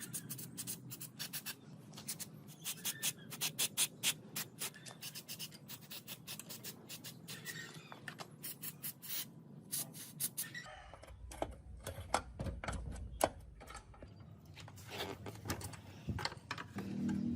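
Rapid scraping strokes, several a second, as parts are worked on by hand. About ten seconds in these give way to a low rumble with scattered clicks and knocks.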